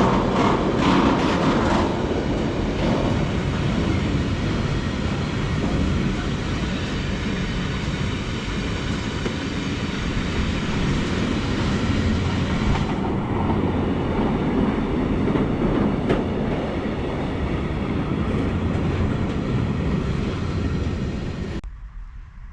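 Freight train rolling past, its wagon wheels rumbling and clicking over the rail joints. The sound cuts off suddenly near the end.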